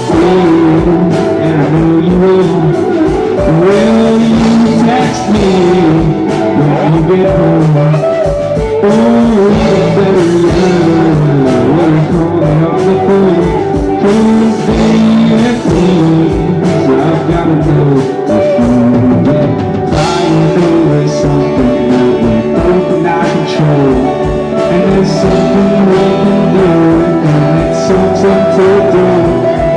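Live rock band playing a song, with electric guitar lines winding up and down over a steady drum beat.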